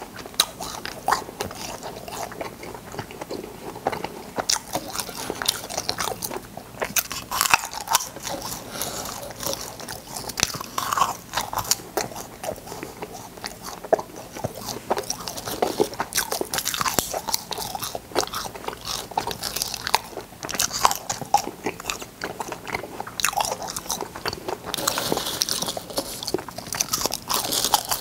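Close-miked crunching and chewing of cola-flavoured candy, with sharp crunchy bites at an irregular pace throughout.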